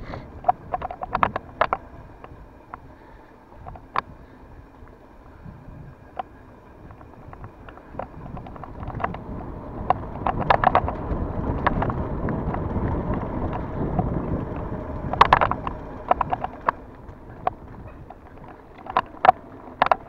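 A bicycle ride heard from the bike: wind on the microphone and rolling noise, swelling in the middle, with short runs of sharp clicking from the bicycle about four times.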